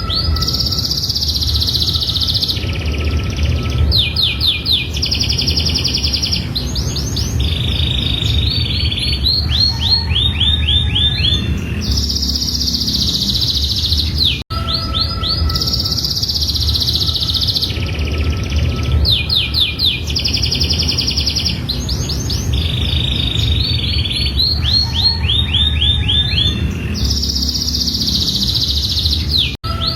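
Domestic canary singing a long song made of fast trilled rolls, each a rapid string of repeated notes at a different pitch, over a steady low background rumble. The same phrase sequence starts over after a brief cut about halfway through, as in a looped recording.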